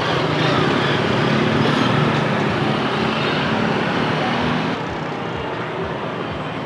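Street traffic noise with a nearby engine humming steadily; the hum stops and the level drops suddenly nearly five seconds in, leaving lighter road noise.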